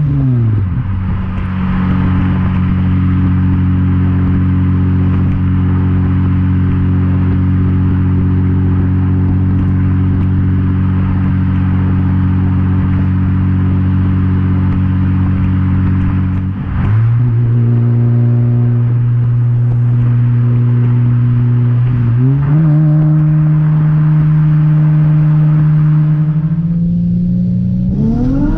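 Supercharged Nissan 350Z's V6 running through an ISR single exit exhaust at a steady cruise, a low even drone. The pitch drops about a second in and again drops sharply a bit past halfway, steps up a few seconds later, and starts climbing as the engine revs near the end.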